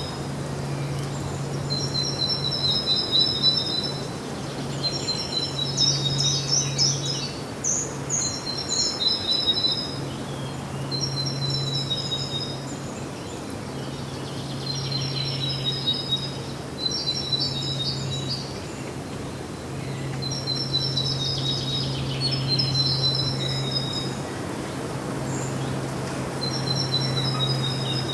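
Bird song: short, high phrases of rapid repeated notes, sung over and over every two or three seconds. A low steady hum runs underneath, fading in and out.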